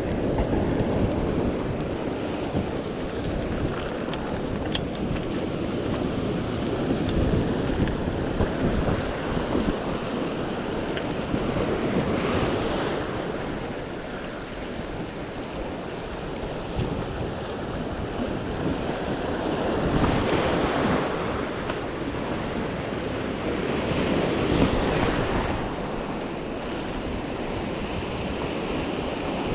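Sea surf washing on the shore, with wind buffeting the microphone. Three louder surges of breaking waves stand out, about 12, 20 and 25 seconds in.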